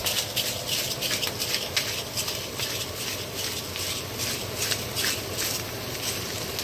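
Green beans and onions frying in butter in a cast-iron skillet: a steady sizzling hiss with scattered crackling pops.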